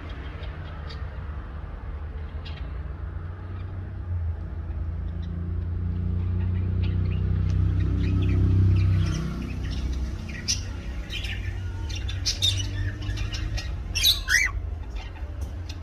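Pet cockatiel squawking and chirping in short sharp calls, few at first and coming thick and fast in the second half, the loudest a quick cluster of squawks near the end. A steady low rumble runs underneath.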